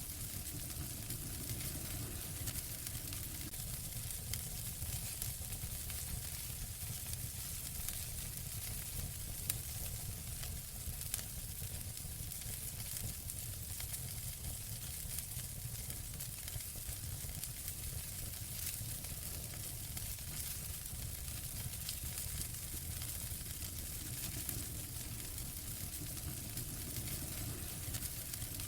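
Fire in a fireplace crackling steadily over a low rumble, with scattered small pops and two sharper ones about nine and eleven seconds in.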